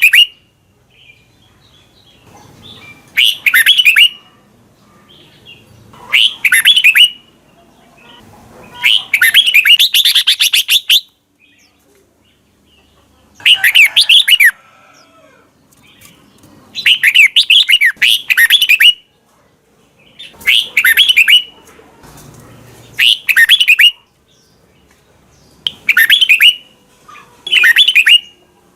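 Red-whiskered bulbul singing, a series of about nine short, loud phrases of quick up-and-down notes, one every two to three seconds; the phrase near the ten-second mark runs longer.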